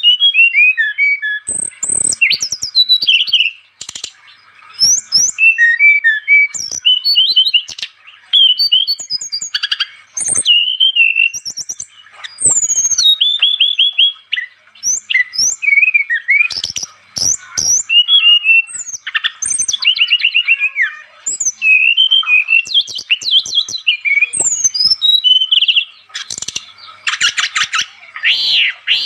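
Brown-chested jungle flycatcher (SRDC) in full song: a rapid, unbroken run of varied whistled phrases, quick trills and chattering notes, with short pauses between bursts.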